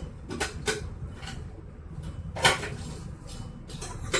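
Several short knocks and clinks of kitchen containers being picked up and set down, the loudest about two and a half seconds in.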